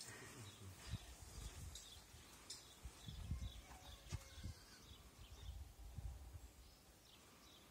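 Faint outdoor quiet with a small bird chirping: short high chirps repeating about twice a second through the second half. Low thumps and rustling from the handheld camera being moved run underneath.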